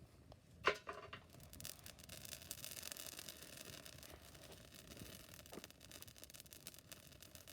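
Chainsaw chain being sharpened with a file: quick rasping strokes of metal on metal, after a single sharp click near the start.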